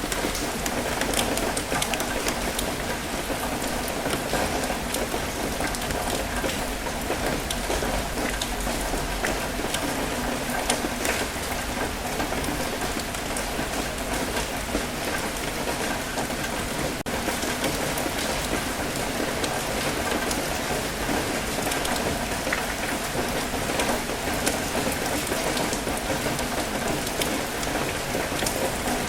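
Steady rain falling, with many distinct drop ticks over a constant low rumble.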